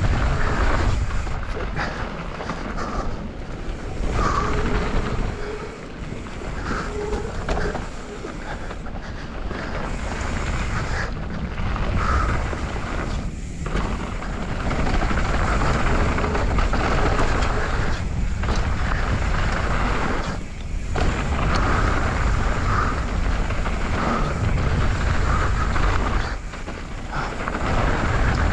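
Rushing noise of a mountain bike descent on a wet dirt trail: wind buffeting the helmet-camera microphone over the hiss and rumble of the tyres, easing off and picking up again several times as the speed changes.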